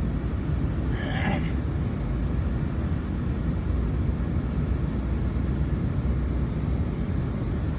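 Truck engine and drive noise heard from inside the cab as it moves slowly: a steady low rumble, with a brief hissing or rustling noise about a second in.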